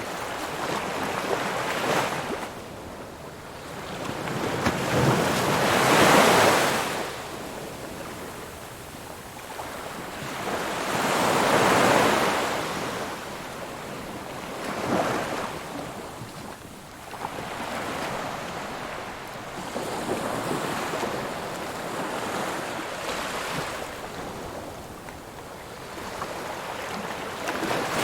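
Ocean waves breaking on a shore, each surge swelling and washing back out, the largest about six and twelve seconds in, with smaller breaks between.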